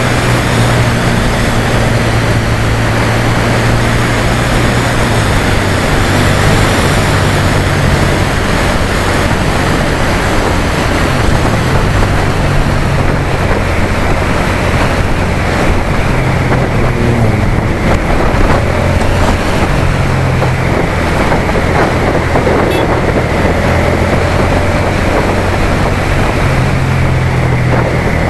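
Suzuki SFV650 Gladius 645 cc V-twin running under way, its low engine note stepping up and down in pitch several times, under a loud steady rushing noise.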